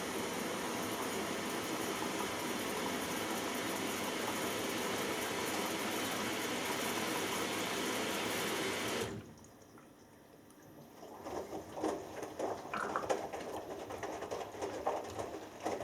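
Hoover Dynamic Next washing machine filling: a steady hiss of water running in, which cuts off abruptly about nine seconds in as the inlet stops. After a brief lull, irregular sloshing and splashing starts as the drum turns.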